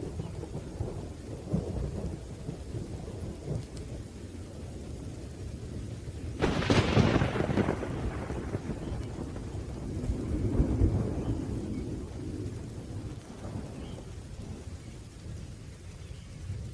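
Thunderstorm with rain: thunder rumbles low throughout, and a sharp thunderclap breaks about six seconds in, then rolls away over a few seconds. A second swell of rumbling follows a few seconds later.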